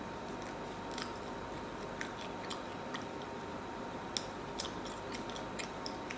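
Close-miked chewing and eating, with many short, sharp mouth clicks scattered irregularly over a steady low background.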